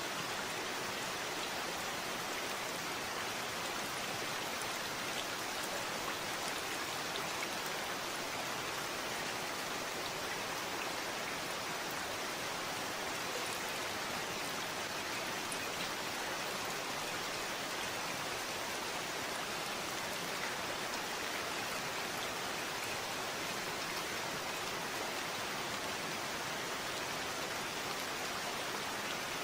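Steady rain falling, an even hiss of many drops with faint scattered drop ticks and no change in strength.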